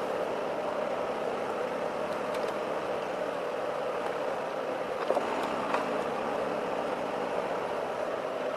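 Heavy forestry vehicle's engine running steadily, with a few light knocks, one a little louder about five seconds in.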